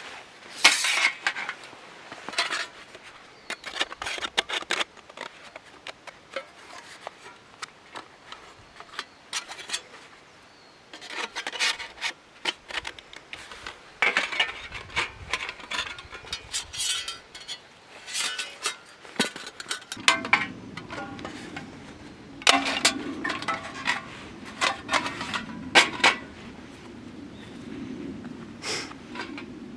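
Irregular scraping and rubbing on wood, broken by sharp knocks and clinks, as in camp-cooking or firewood handling. About two-thirds of the way in a steady low hum starts up underneath and keeps going.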